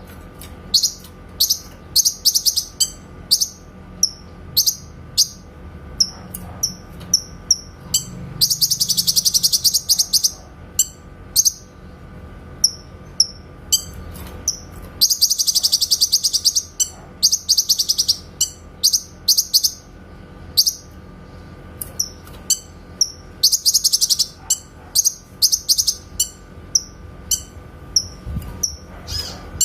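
Cucak kinoy song-bird calling: short, sharp, high whistled notes repeated about every half second, the clear 'tembakan' shots. Four times these break into fast rattling trills lasting a second or two.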